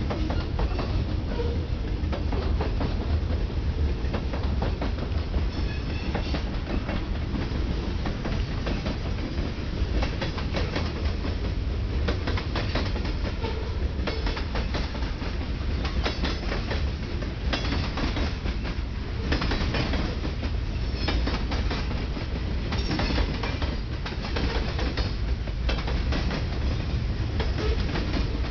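Ferromex freight train of covered hoppers and boxcars rolling past: a steady rumble with rapid, continuous clicking of the wheels on the rails.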